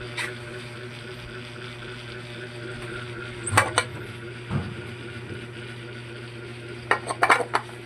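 Several short sharp metallic clicks and taps as parts are fitted onto a scooter engine, with a cluster of them near the end, over a steady low hum.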